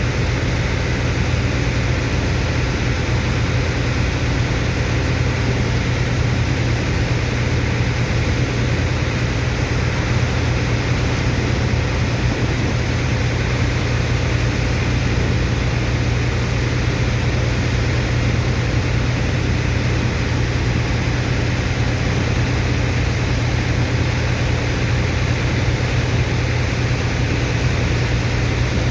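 Sand dredger's diesel engine and pump running steadily under load, a deep, even drone with a hiss over it and no change in speed.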